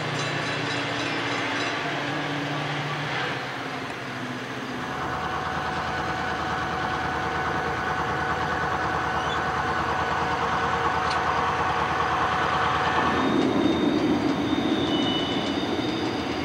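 Diesel locomotives and railroad cars: a diesel engine running steadily, with the sound changing about a third of the way in and again near the end as rail cars roll by.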